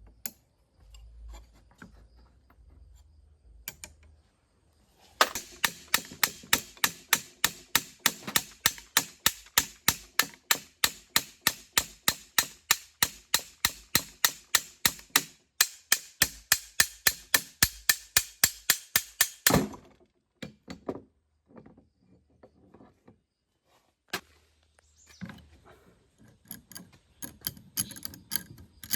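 A fast, even run of sharp striking blows, about four to five a second, starting about five seconds in and stopping just before twenty seconds, with a brief break partway through. Scattered lighter knocks and clicks come before and after it.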